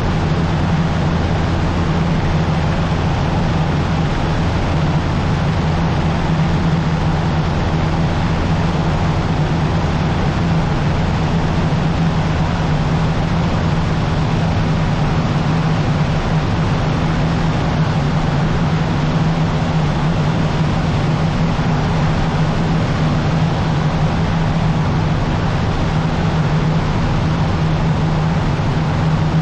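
Cessna 150's four-cylinder Continental O-200 engine and propeller droning steadily at cruise, heard inside the cabin.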